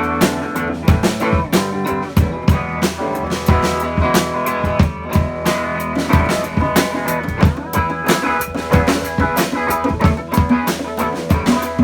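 Live band jamming instrumentally: drum kit with kick and rimshot hits keeping a busy beat under sustained guitar and bass notes.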